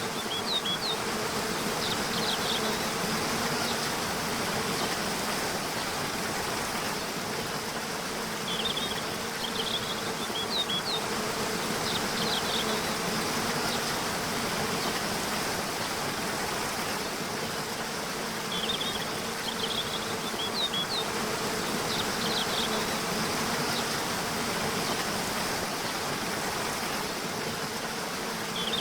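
Steady rush of a waterfall, with a continuous low insect-like buzz. Groups of short, high bird chirps come in several times.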